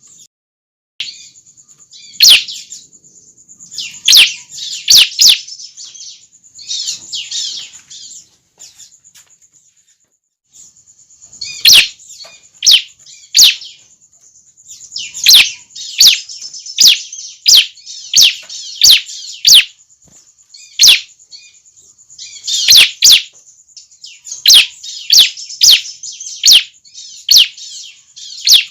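Young bar-winged prinia (ciblek) calling: loud, sharp high chirps in irregular runs over a continuous high buzz, with a short pause about a third of the way in.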